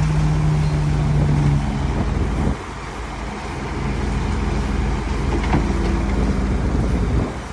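Heavy diesel earthmoving machinery, dump truck and bulldozer engines, running steadily. The engine note drops suddenly about two and a half seconds in, then builds back up.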